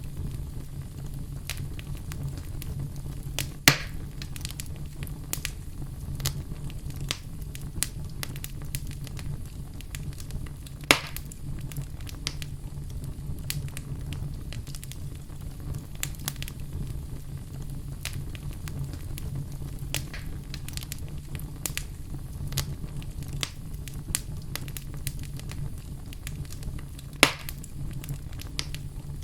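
Fire in a fireplace crackling over a steady low rumble, with scattered small pops. Three louder pops stand out: about four seconds in, about eleven seconds in, and near the end.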